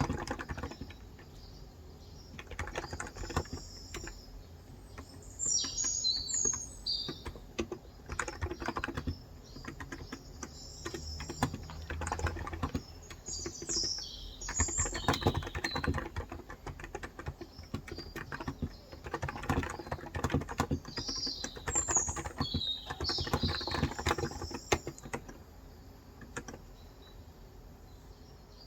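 Typing on a Cox Endeavor electrostatic capacitive tenkeyless keyboard with 35 g switches, in runs of quick keystrokes broken by short pauses. Small birds chirp in three short bursts, and the typing stops near the end.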